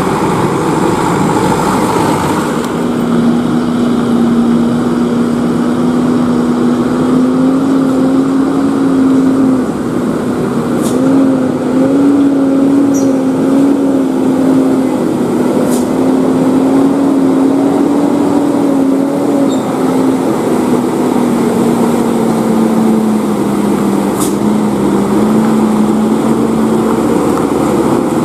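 A heavily loaded tronton truck's diesel engine running under load: a loud, steady drone whose pitch wavers, sags a little about two-thirds of the way through, then climbs back.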